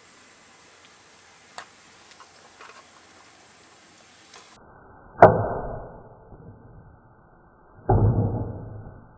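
A few faint ticks, then two heavy thumps about three seconds apart, each trailing off over about a second.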